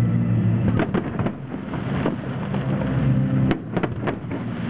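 Aerial firework shells bursting in a run of sharp bangs and crackles, the loudest about three and a half seconds in. A steady low drone runs underneath.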